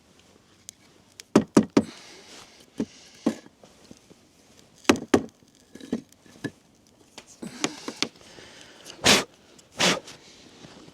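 Pieces of firewood knocking and clattering as they are laid into a fire pit: about a dozen sharp knocks at irregular intervals, the two longest and loudest near the end.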